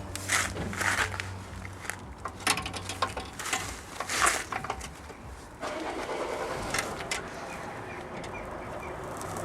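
Clinks and short scrapes of a 10 mm wrench on a bolt being loosened under the rear of a car. From about halfway there is a steadier rushing noise with faint, regular light ticks.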